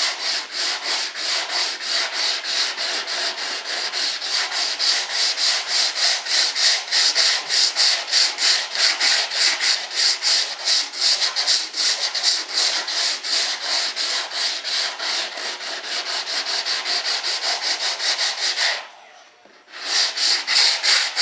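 80-grit sandpaper rubbed back and forth over hardened Bondo body filler, about four quick scraping strokes a second, cutting the filler down flat. The strokes stop for about a second near the end, then start again.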